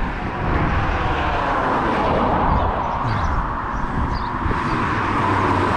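Traffic passing at speed on the road beside him: a steady rush of tyre and engine noise that swells in the first second and then holds.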